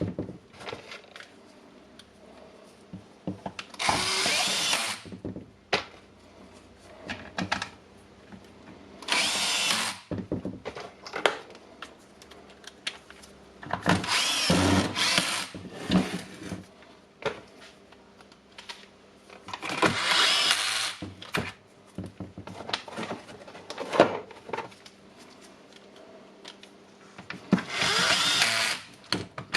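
Cordless power screwdriver driving screws into a power tool's plastic housing: about five short whirring runs a few seconds apart, with clicks and knocks of handling between them.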